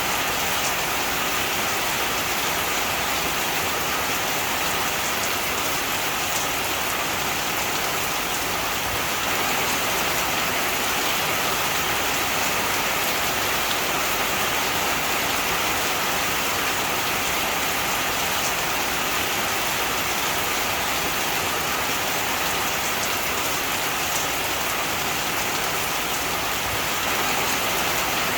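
Heavy rain falling steadily on a surface: an even, constant hiss with faint scattered drop ticks.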